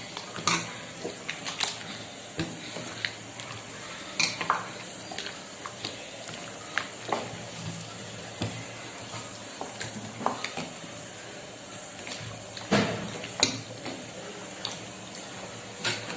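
Metal spoon knocking and scraping against a cooking pot as mutton curry is stirred, about a dozen irregular clinks, over a steady low sizzle from the pot.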